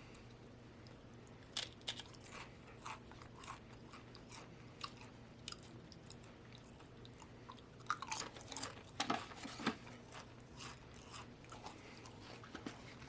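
A person biting into and chewing a Pringles potato crisp, with irregular crisp crunches that come thicker and louder around the middle of the stretch.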